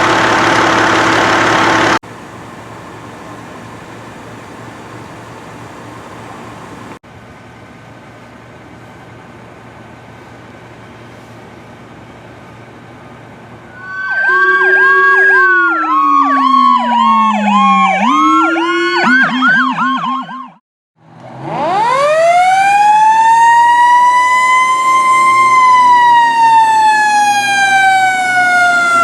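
Fire apparatus sirens. From about halfway, an electronic siren gives fast repeating yelps over a falling wail. After a brief break, a second siren winds up in pitch, then slowly falls. Before the sirens there is a steady background rumble, loud for the first couple of seconds and then quieter.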